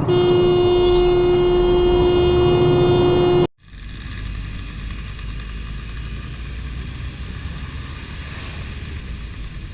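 A car horn held in one long, steady blast for about three and a half seconds, cutting off abruptly. Then a vehicle's steady engine and road noise follows.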